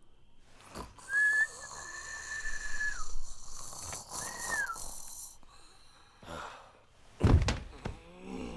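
A whistle held steady for about two seconds, then a shorter whistle that drops in pitch at its end; a heavy thud about seven seconds in.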